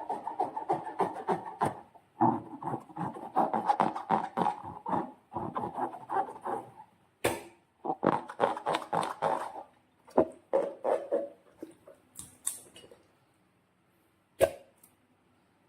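Slime being squished and kneaded by hand: runs of rapid wet squelching and crackling, with a few sharp snaps, the loudest near the end.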